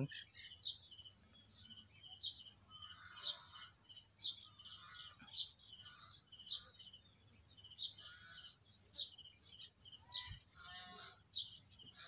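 A bird calling over and over, faint: a short high note with a brief trill, repeated about once a second.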